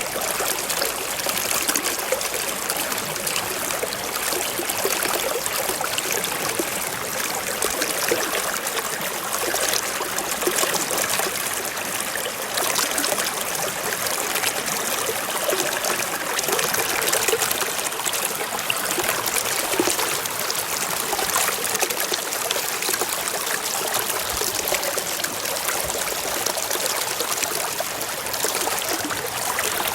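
Forest stream flowing and trickling over rocks, an even splashing hiss.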